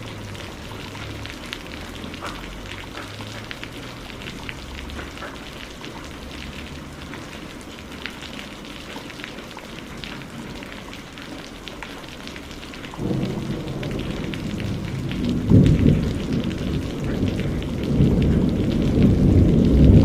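Steady rain pattering, joined about two-thirds of the way in by low rolling thunder that swells and grows louder toward the end.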